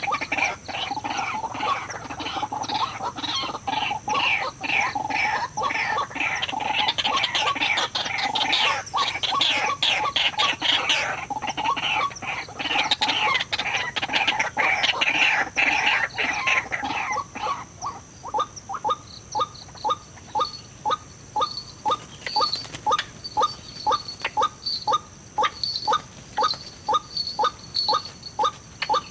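White-breasted waterhen calls. For the first seventeen seconds or so there is a dense, continuous run of harsh repeated calls. After that it settles into a steady series of short notes, about two to three a second.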